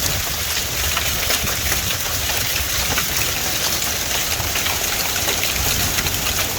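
Hail and heavy rain coming down: a dense, steady hiss full of quick sharp ticks from hailstones striking, over a constant low rumble.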